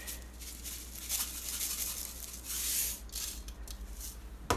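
Soft rasping and rustling as salt is added to a bowl of filling, with a longer hiss a little past halfway.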